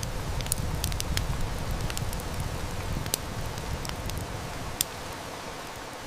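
Steady heavy rain with a wood fire crackling in sharp, scattered snaps, one loud snap near the end. A low rumble of distant thunder swells in at the start and fades away over about five seconds.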